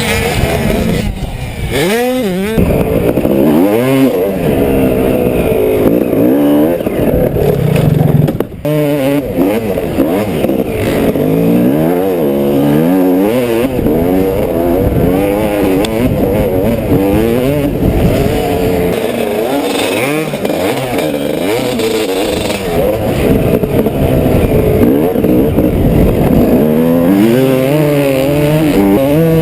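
Dirt bike engine revving up and falling back again and again as the throttle is opened and let off, with a brief sudden drop in sound about eight and a half seconds in.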